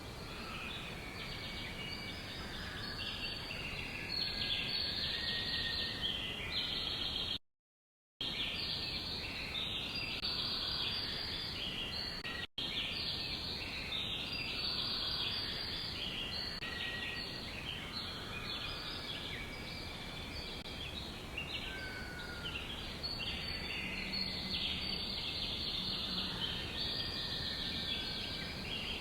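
A dense chorus of many small birds chirping and trilling at once, with a brief complete cut to silence about seven seconds in and a momentary one a few seconds later.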